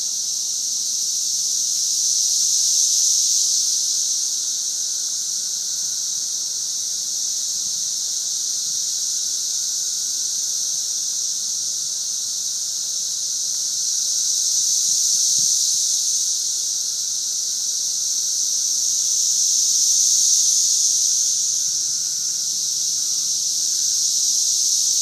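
Really loud chorus of cicadas: one steady, high-pitched drone that swells and eases in slow waves every several seconds.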